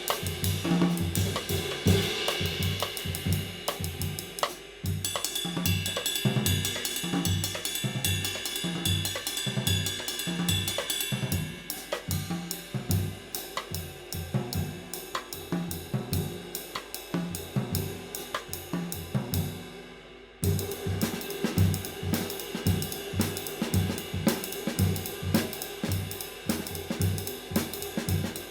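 A drum kit groove played over a handmade 20-inch K-style medium-light B20 bronze ride cymbal, with the ride's ringing wash above regular bass drum and snare hits. The playing breaks off abruptly about five seconds in and again near twenty seconds, each time picking up again at once.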